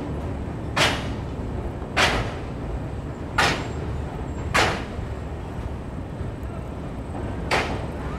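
Express train running at speed, heard from inside the coach: a steady low rumble with short sharp whooshes about every second, five in all, the last after a pause of nearly three seconds.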